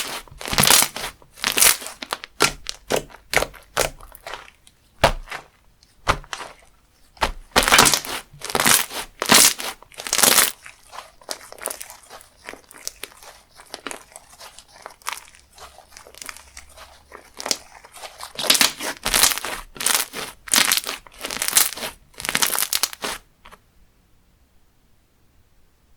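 Textured slime squeezed and pressed by hand, giving crackly, crunching sounds in repeated bursts. It stops about two seconds before the end.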